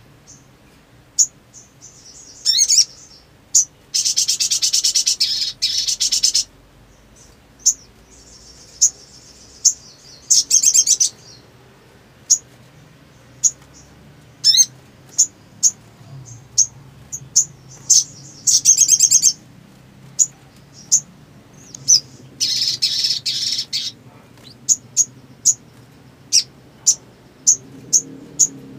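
Sogon (sogok ontong, the little spiderhunter) singing: sharp, high single chirps repeated about once a second, broken by several rapid high trills lasting one to two seconds.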